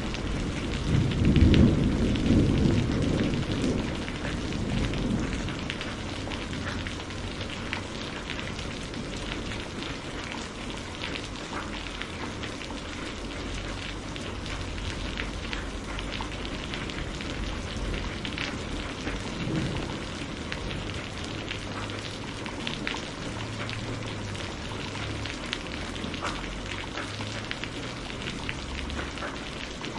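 Steady rain falling, with distinct drops pattering through it. A low roll of thunder is loudest in the first couple of seconds and dies away within about five seconds.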